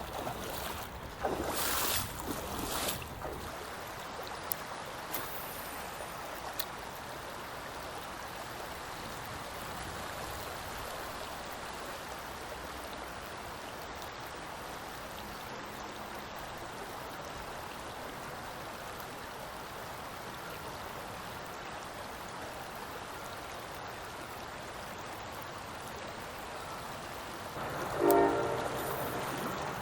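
Creek water running steadily over the shallows, with a few brief louder noises in the first three seconds. Near the end a loud horn sounding several steady tones at once starts up.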